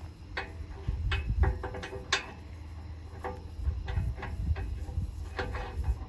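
Irregular metallic clicks and clinks, each with a short ring, from metal hardware being handled while a truck is winched and secured on a trailer, over a steady low rumble.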